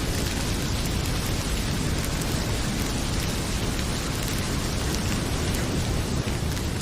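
Heavy rain pouring steadily with a deep low rumble, over the faint crackle of a wood fire.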